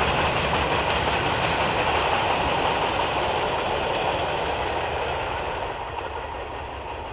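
Freight train cars rolling past on the rails: a steady, dense rolling rumble and wheel-on-rail noise that fades gradually over the last couple of seconds as the train moves away.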